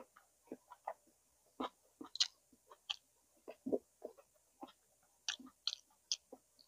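Close-up mouth sounds of a person eating boiled pig's tail: wet chewing with irregular smacks and clicks, a few each second.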